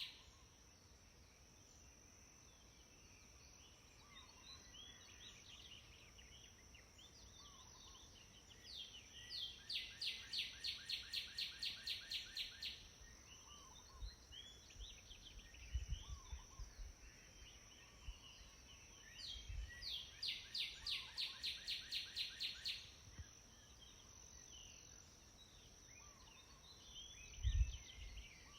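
A bird singing outdoors: a song of rapidly repeated notes, about five a second, delivered twice for roughly three seconds each, with faint scattered chirps between and a steady high-pitched hum underneath. A few low bumps near the end.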